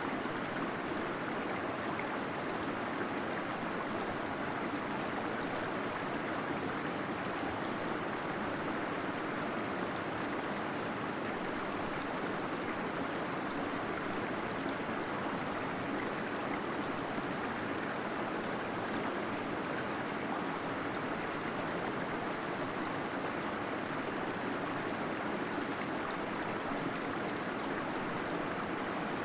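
Small cave waterfall flowing steadily, a continuous rush of falling and gurgling water.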